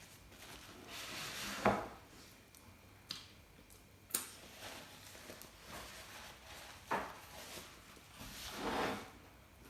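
Close-up eating and food-handling noises: a few sharp clicks and knocks against tableware, with short noisy swells about a second in and near the end.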